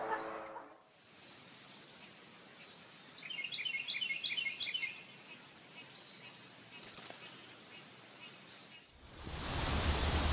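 Birds chirping over a faint outdoor hiss: a short run of five high chirps, then a faster run of about eight chirps a couple of seconds later. Near the end a louder, steady hiss starts abruptly.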